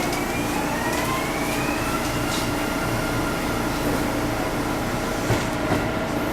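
Kintetsu electric train running, its motors whining in several tones that rise in pitch over the first two seconds and then hold steady, over the constant rumble of the train in motion.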